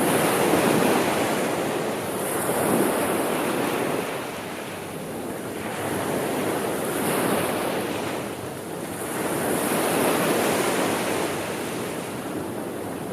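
Gentle sea waves washing onto the shore, swelling and drawing back about every three to four seconds, with a steady hiss of surf.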